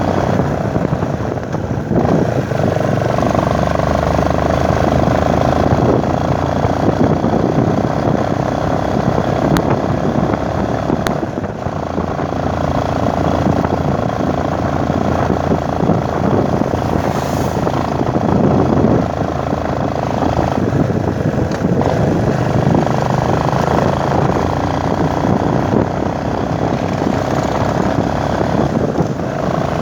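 Motorcycle running under way, with a steady engine note and rushing wind noise, the engine note dipping briefly a few times.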